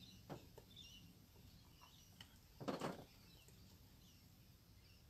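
Near silence, with faint bird chirps and a low steady hum. There is a brief soft noise a little past halfway.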